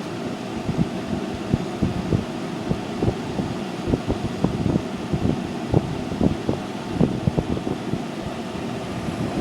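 1991 Friedrich QuietMaster 10,000 BTU window air conditioner with a rotary compressor, running with a steady fan and blower noise. Irregular soft low thumps run through it.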